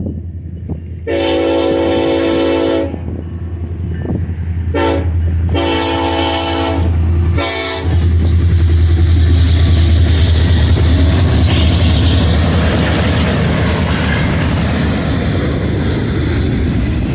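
A diesel freight locomotive's chime horn sounds four blasts, long, short, long, short, over the steady drone of its engine. From about eight seconds in, the train passes close by with loud, continuous wheel and rail noise.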